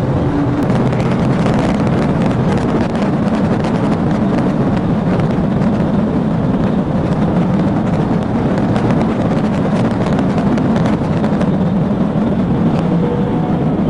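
Pursuing police car driving at high speed: a steady, loud rush of engine, tyre and wind noise, with scattered small knocks and rattles.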